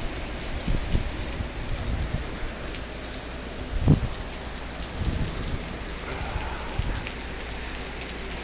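Very heavy rain pouring down in a steady hiss, broken by several low thumps, the loudest about four seconds in.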